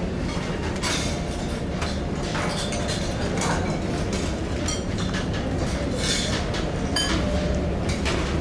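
Steady low rumble of a large car ferry under way, with irregular clinks and rattles over it.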